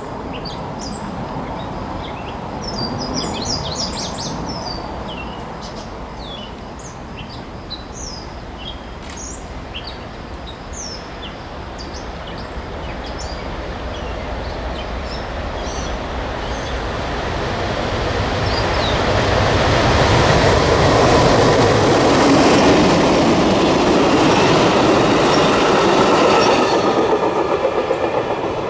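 A railroad track geometry train approaching along the line, its rumble and wheel noise growing steadily louder and peaking over the last third. Birds chirp over it in the first dozen seconds.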